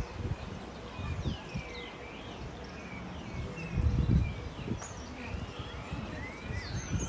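Small birds chirping repeatedly in short rising and falling calls, over low rumbling and thumps that are loudest about four seconds in.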